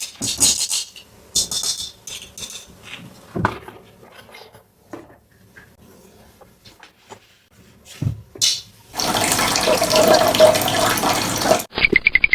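Clicks and short rustles of plastic toy pieces and packaging being handled. Near the end comes about three seconds of continuous rushing noise, then a brief pulsed sound.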